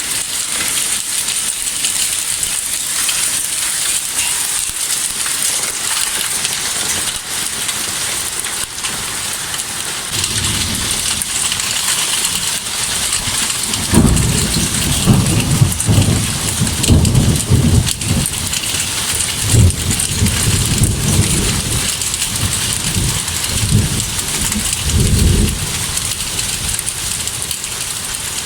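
Heavy thunderstorm downpour hissing steadily, with deep rumbling surges that come and go from about a third of the way in until near the end.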